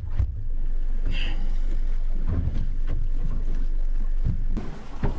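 Small boat under way at sea: a steady low rumble of engine and hull, with wind on the microphone and a few sharp knocks. It gets quieter shortly before the end.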